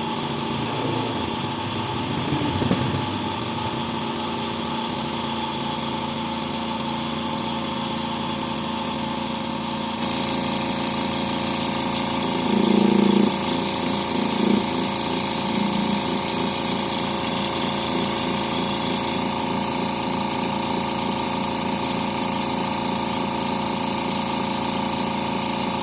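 Plug-in portable piston air compressor running steadily under load as it builds pressure in its tank. There are a few brief louder bumps about halfway through.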